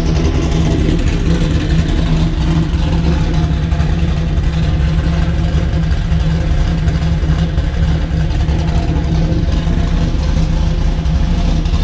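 Chevrolet Camaro engine idling steadily while warming up after a cold start.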